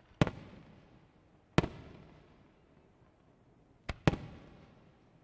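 Aerial firework shells bursting: three sharp booms, one at the start, one about a second and a half in and one about four seconds in, the last just after a smaller crack. Each boom trails off in a rolling echo.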